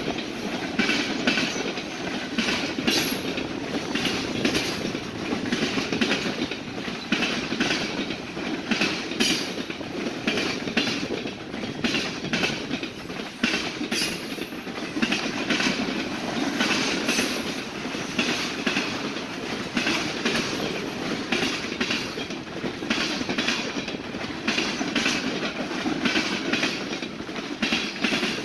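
Railroad cars of a freight train rolling past, their wheels clicking over rail joints in a steady clickety-clack, with a faint wheel squeal now and then.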